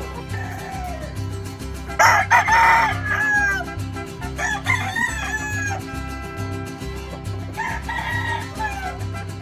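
Gamefowl roosters crowing several times, the loudest crow about two seconds in, over background music with a steady beat.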